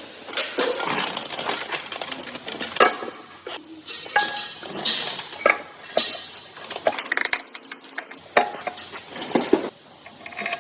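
Metal engine parts and tools clinking and clattering at irregular intervals, several of the sharp clinks ringing briefly.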